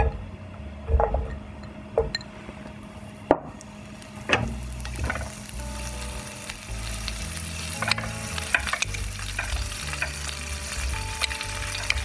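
Strips of pancetta dropped one after another into a frying pan of hot olive oil, a few soft knocks over the first few seconds. After about four seconds the pancetta starts to sizzle in the oil, and the sizzle grows steadily.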